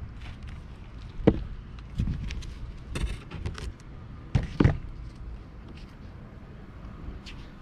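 A few scattered knocks and clacks from wood pieces and tools being handled during carpentry, with the sharpest about a second in and a double knock about four and a half seconds in.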